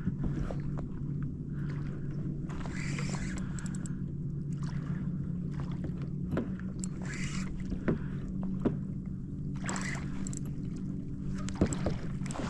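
Kayak on the water with splashy strokes every two to three seconds, likely paddle strokes, over a steady low hum, with a few sharp knocks in between.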